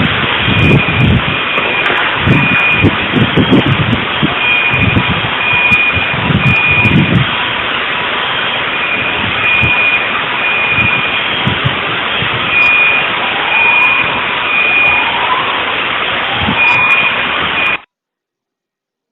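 Loud rushing noise with a high electronic alarm beeping over it in short, irregular pulses, and deep rumbling gusts during the first several seconds. The sound cuts off abruptly near the end.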